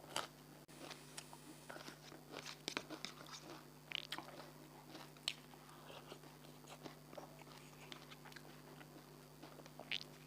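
Faint chewing and eating mouth sounds close to the microphone: irregular small crunches and clicks, with a few louder mouth clicks.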